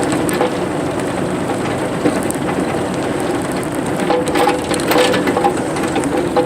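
Excavator running steadily, with irregular crunching, cracking and knocking as it works.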